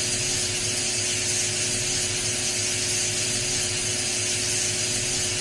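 Steady background noise: an even hiss with a faint steady hum, unchanging throughout.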